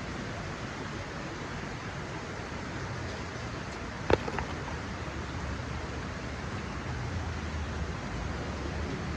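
Heavy monsoon rain falling steadily on a garden, a continuous hiss. A single sharp tap with a short ring about four seconds in.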